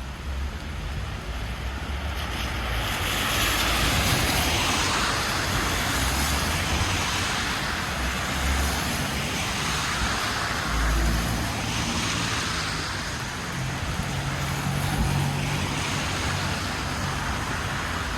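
Traffic on a rain-wet street: vehicles pass one after another, their tyres hissing on the wet road in swells every few seconds, over a low engine rumble.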